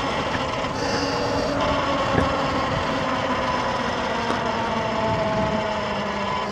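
X Pro dirt bike engine running steadily under light throttle, its pitch easing slightly lower through the second half, with a single knock about two seconds in.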